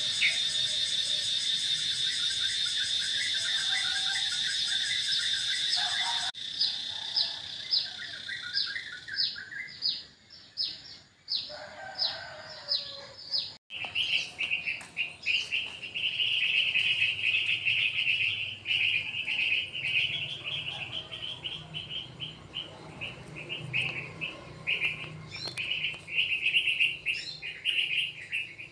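Birds chirping and calling over and over, with a steady high-pitched buzz during the first few seconds; the sound changes abruptly twice.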